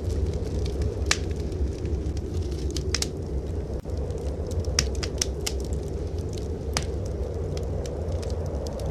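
Wood fire in a fireplace crackling, with a few sharp pops scattered through it, over a steady low rumble of blizzard wind.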